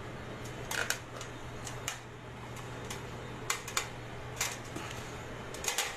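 Irregular light clicks and taps, a dozen or so spread unevenly, over a steady low hum.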